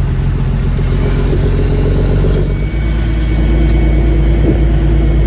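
Semi truck's diesel engine pulling away under load, with a gear change about two and a half seconds in, after which it runs lower and louder.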